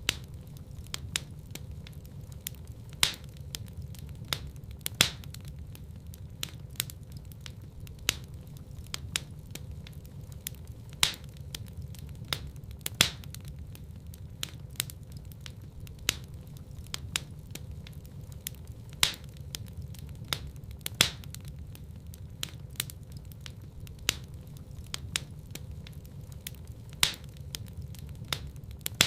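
Wood fire burning in a fireplace: constant small crackles and pops with a few louder snaps every few seconds, over a steady low rumble of the flames.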